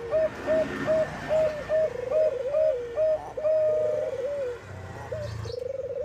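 Zebra dove (perkutut) cooing: a fast run of short, clipped coos, about three a second, broken by rolling trilled notes.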